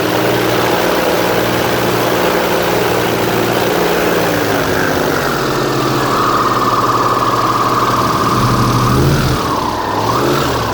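Airboat engine and air propeller running under way, a loud steady drone. Its pitch dips and climbs back near the end.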